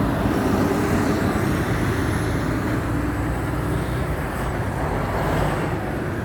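Steady road traffic noise: cars and lorries running past in a continuous wash of engine and tyre noise.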